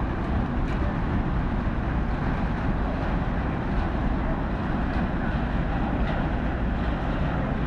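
Steady low rumble of a ship's engines as it leaves harbour, with no distinct events.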